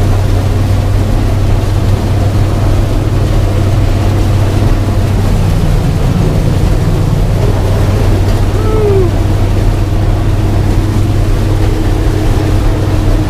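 Combine harvester running steadily, a loud, constant low engine drone heard from the operator's cab.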